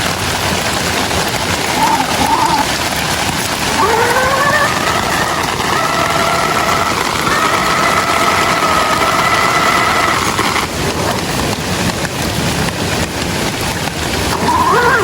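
Heavy rain, a dense steady hiss. A pitched whine rises about four seconds in, holds steady and cuts off suddenly near eleven seconds.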